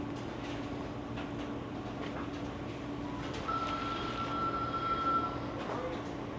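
Steady mechanical hum of a running air-conditioning system, with a high steady whistle for about two seconds midway.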